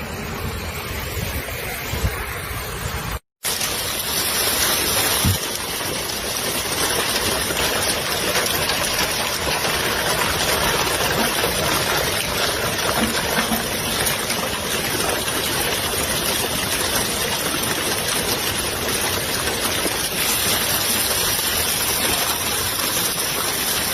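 Heavy hail pelting down in a steady, dense roar. It breaks off in a moment of silence about three seconds in, where one clip gives way to the next, and then carries on as evenly.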